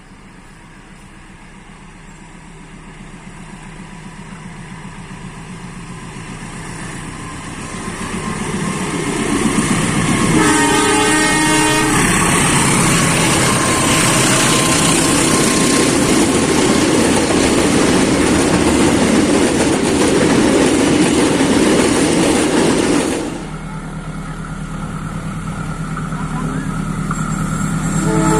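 A train approaches, growing steadily louder, and sounds its horn for about two seconds around ten seconds in. Its loud pass-by noise follows and cuts off abruptly. After a few seconds of quieter rumble, another train horn starts near the end.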